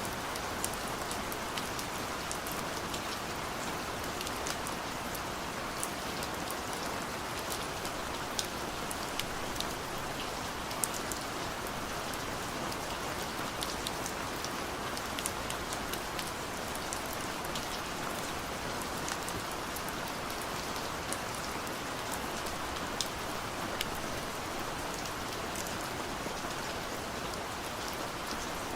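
Steady rain falling, with many individual drops ticking sharply on a surface above an even hiss.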